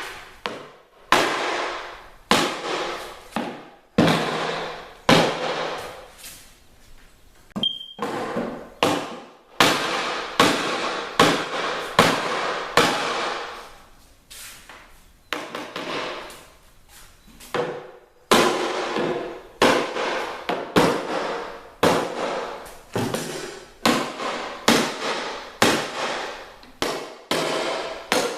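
Repeated sharp hammer blows knocking out the wedges and forms inside a strip-built kayak hull, breaking the hot-glue joints that hold the hull to the forms. The strikes come about one or two a second, each ringing briefly, with a few short pauses.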